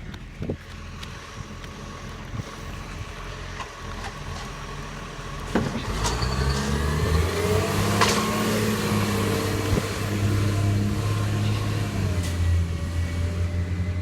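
A motor vehicle's engine, quiet at first, grows loud about five and a half seconds in and keeps running with a steady low hum, rising in pitch briefly as it pulls away. A sharp click sounds near the start of the loud part and another a few seconds later.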